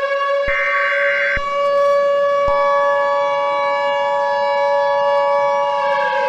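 A civil defense siren wails at a steady pitch and begins to wind down near the end. Over it an Emergency Alert System header plays: a burst of screeching data tones ending about a second and a half in, then the steady two-tone EAS attention signal starting about two and a half seconds in.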